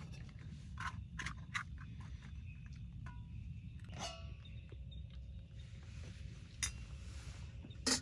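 Metal camp cookware and utensils clinking and knocking: a few light taps in the first two seconds, a strike about halfway that rings briefly, and two sharper knocks near the end, over a steady low rumble.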